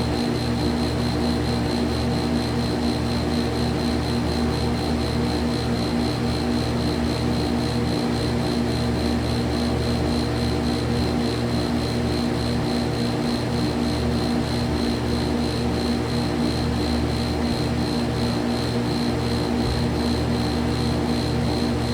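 Home HVAC unit running steadily: an even fan whoosh over a constant motor hum with several held low tones and a thin high tone.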